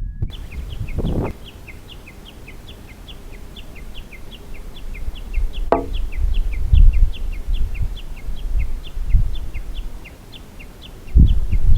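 A bird singing a long, fast series of short high chirps, about three a second, alternating between two pitches. Low rumbling thumps come and go underneath, with one sharp knock about six seconds in.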